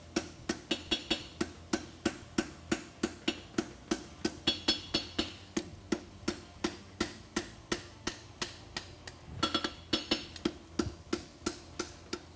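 A blacksmith's hammer striking hot steel on an anvil in a steady run of blows, about four a second, tacking and closing the forge weld on a folded 3/4 x 3/8 inch concave horseshoe bar.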